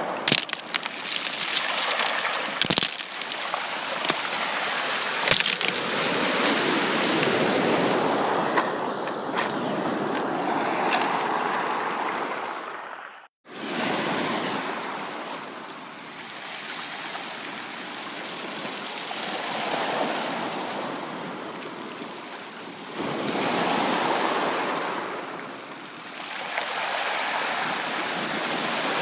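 Sea waves breaking and washing up a beach, swelling and falling away every few seconds, with sharp crackles in the first few seconds. The sound cuts out for a moment about 13 seconds in, then the surf resumes.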